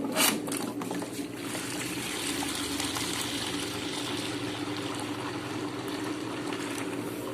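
Washing machine drain pump running, switched on directly from a test box in place of the control board: a steady motor hum with water trickling and gushing as it pumps water out of the machine. A brief knock just after the start.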